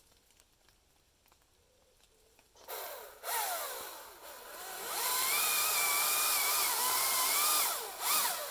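Chainsaw revving about three seconds in, dropping back, then running at a steady high whine for about three seconds before easing off near the end.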